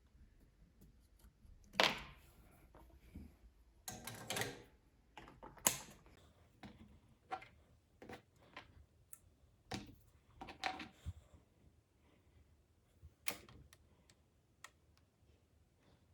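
Irregular clicks, knocks and short rattles of small tools and machine parts being handled during repair work on a sewing machine, with a few louder clattering handlings spread through.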